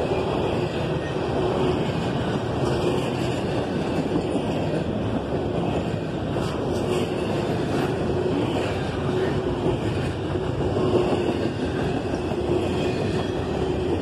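Double-stack intermodal container cars of a freight train rolling past at a steady speed, wheels running on the rails.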